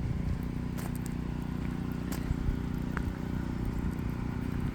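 An engine running steadily with a low, even hum, and a few faint sharp ticks on top.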